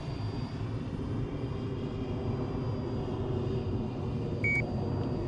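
70mm electric ducted fan of an RC foam model jet in flight, a steady rushing whine that grows slightly louder. A short high beep sounds once, about four and a half seconds in.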